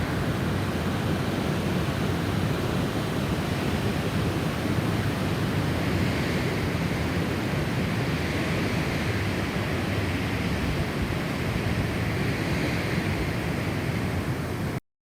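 Snowstorm wind blowing steadily, swelling in slow gusts. It cuts off suddenly near the end.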